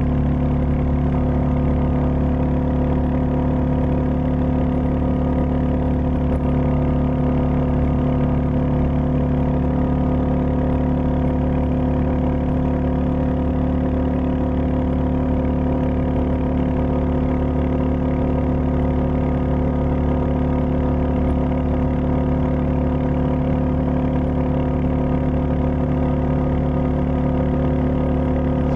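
Royal Enfield Meteor 350's single-cylinder engine and exhaust running at a steady, unchanging speed.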